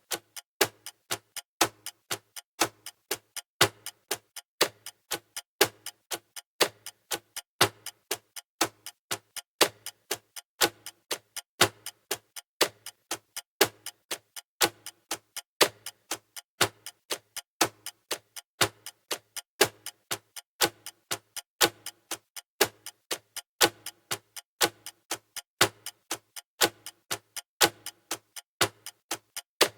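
Clock ticking sound effect marking a countdown timer: steady, evenly spaced ticks, about two a second, alternating louder and softer like a tick-tock.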